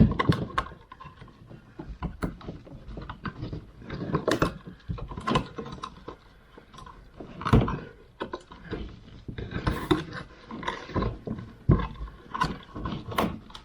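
Metal fishing chain and taped wire being fed down inside a hollow wall, rattling and scraping in irregular clicks, with a few louder knocks.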